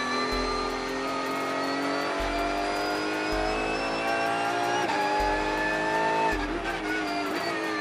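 Race car engine running under load, its pitch rising slowly for about six seconds, dipping briefly near the end, then climbing again.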